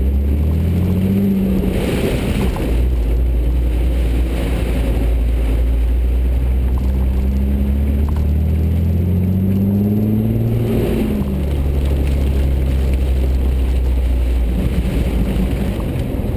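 Vehicle engine heard from inside the cab, accelerating: its pitch climbs for the first couple of seconds and again for several seconds, dropping at a gear change about two seconds in and again about eleven seconds in. Under it runs a steady hiss of tyres on the rain-soaked road.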